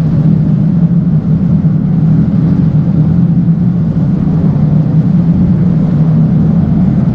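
Sea-Doo personal watercraft engine running loud and steady, holding an even pitch throughout.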